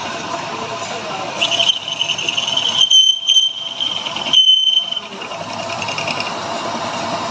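Lathe running steadily while cutting, with a high-pitched squeal from the cutting tool on the workpiece from about one and a half to five seconds in, peaking twice.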